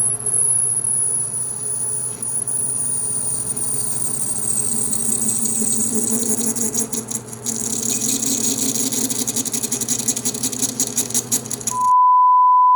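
Metal lathe running with a boring tool chattering and squealing as it rubs inside a 304L stainless steel bore, cutting a thread relief groove: the tool is rubbing and chattering rather than cutting. A high squeal falls slowly in pitch over the first few seconds, then gives way to a fast, rattling chatter over the steady motor hum. Near the end the sound cuts off abruptly into a loud, steady beep tone.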